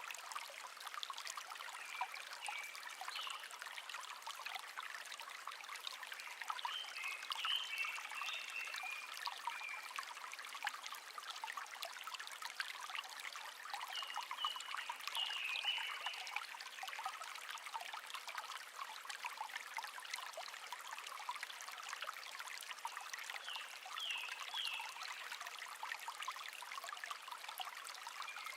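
Shallow brook babbling and trickling steadily, with a wild bird singing short, high chirping phrases four times.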